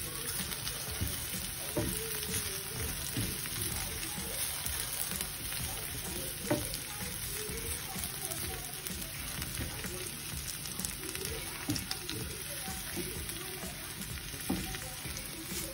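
Sliced green chillies and onions sizzling in hot oil in a frying pan as they are stirred with a wooden spatula. Scattered scrapes and taps of the spatula on the pan come through the steady sizzle, the sharpest about six and a half seconds in.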